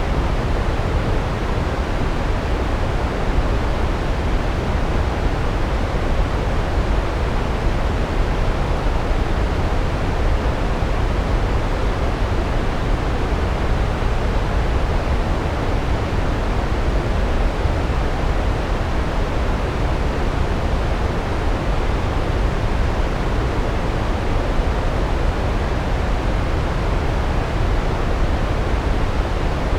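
Large waterfall: a steady, deep rush of water pouring down onto rocks, heaviest in the low end and unchanging throughout.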